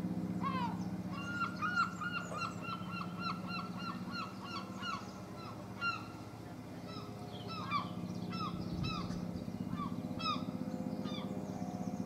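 A bird calling: a quick run of short, falling notes starting about a second in and lasting a few seconds, then single calls scattered through the rest, over a steady low hum.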